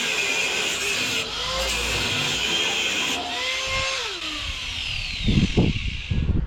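Angle grinder running against steel sheet, its pitch dipping and recovering as it is loaded. From about five seconds in, a few heavy low thumps are the loudest sounds.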